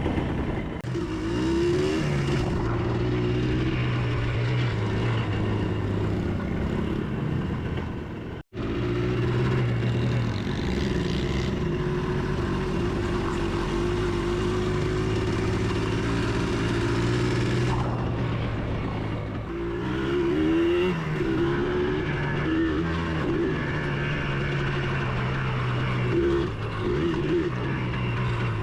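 Motorbike engine running as the bike is ridden, rising and falling in pitch with the throttle, with a sudden break about eight seconds in.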